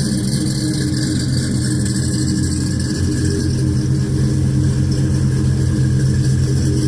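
1955 Chevrolet truck engine running steadily at an even speed, with no revving.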